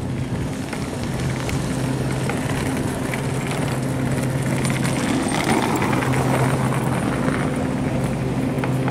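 Metro-North M8 electric commuter train pulling slowly into the station: a steady low electric hum with wheel-on-rail noise that swells about five seconds in as the train nears.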